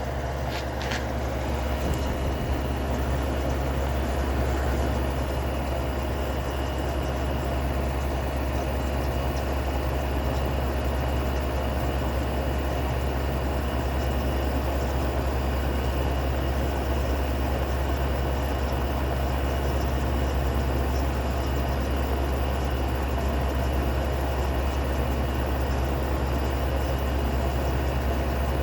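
Amana dehumidifier running: a steady low hum from its compressor under the even rush of its fan. A few light clicks sound in the first second.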